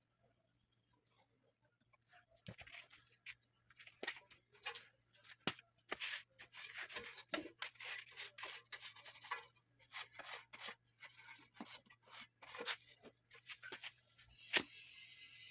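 Hand work on stand fan parts: irregular clicks, scrapes and rustling of plastic and metal being handled, starting about two seconds in, over a faint steady low hum.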